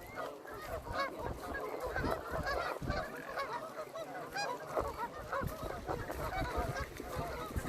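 A flock of waterfowl calling over one another: many short, overlapping honking calls.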